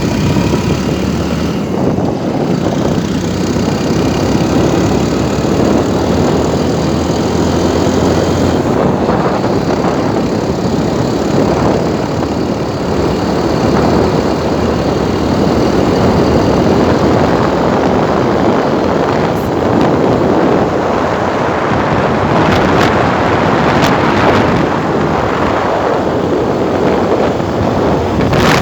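Steady engine running under a loud, even rushing noise.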